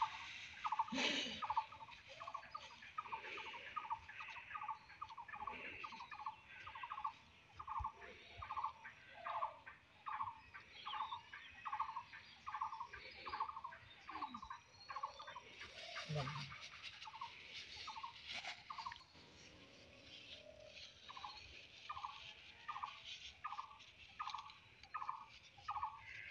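A bird calling a long, steady series of short single notes, about two a second, with a break of a couple of seconds about three-quarters of the way through. Faint rustling and handling noises sit underneath.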